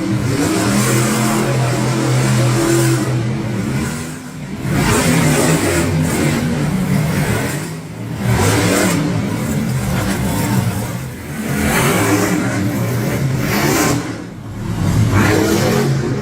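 Monster truck engine revving hard, surging and easing off again about four times.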